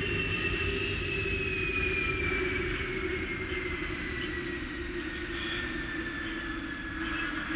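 Jet airliner slowing after landing: engine whine falling slowly in pitch over a steady low rumble.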